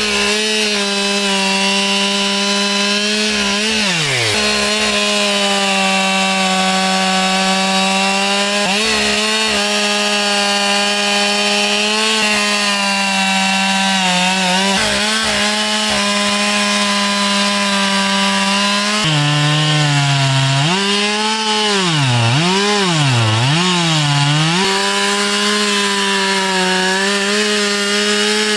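Husqvarna two-stroke chainsaw running at high revs while cutting firewood. Its pitch sags briefly a few times and wavers up and down for several seconds past the middle, as the chain bogs down under load in the wood.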